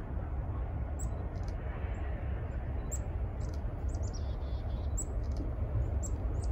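A small bird chirping: short, high chirps every second or two, with a brief trill about four seconds in, over a steady low rumble.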